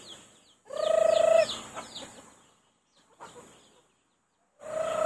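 Chickens calling: two drawn-out, level-pitched calls, one about a second in and one near the end, with quick high chirps over the first.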